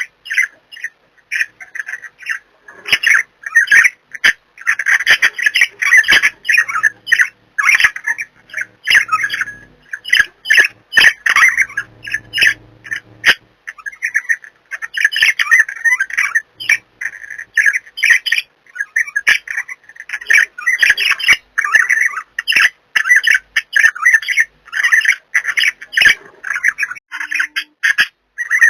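Pet budgerigars chattering: a continuous run of rapid, high chirps and squawks.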